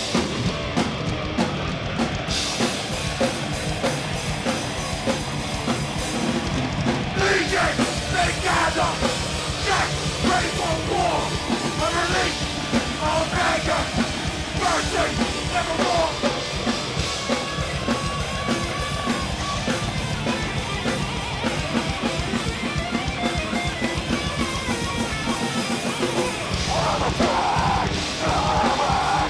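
Live heavy metal band playing loud and fast, with a busy drum kit and distorted guitars and bass.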